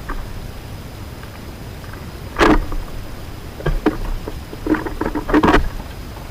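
Irregular knocks and taps: one sharp knock, then a few scattered taps and a quick cluster of knocks near the end, over a steady low rumble of wind or rain noise.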